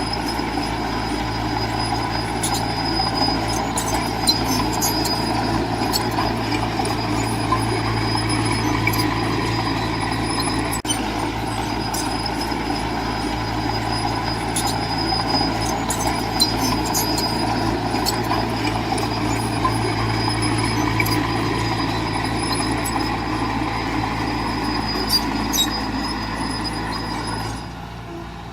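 Heavy earthmoving machine's diesel engine running steadily under work, with scattered light clicks and clanks over it. The level drops briefly near the end.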